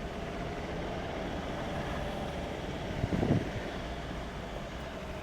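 SUV engine running steadily while the vehicle climbs a steep off-road incline of about 32 degrees. A brief louder sound comes about three seconds in.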